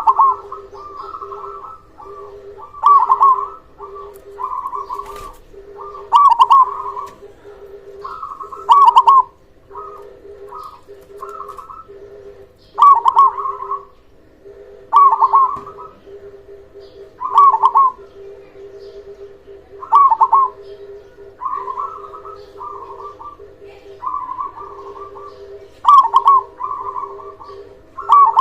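Zebra doves (perkutut) cooing: loud, rolling coo phrases come every two to three seconds, with softer cooing between them.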